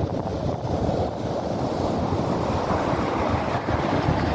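Rough storm surf breaking and washing in along a sandy beach, a steady rushing noise, with wind buffeting the microphone.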